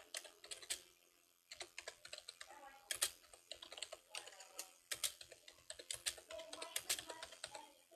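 Light, irregular clicks and taps in quick runs with short pauses, with a faint voice in places.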